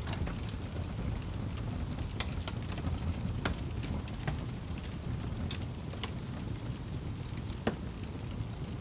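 Fire burning in a fireplace: a steady low rumble of flames with scattered sharp crackles and pops, one louder pop near the end.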